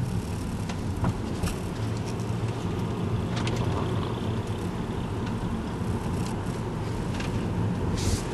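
Car engine and tyre noise heard from inside the cabin while driving slowly: a steady low hum with a few faint clicks.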